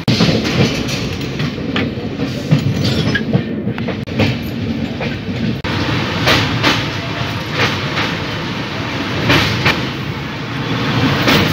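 Passenger express train running at speed, heard from a coach window. A steady rumble and rush runs throughout, with the wheels clicking irregularly over rail joints.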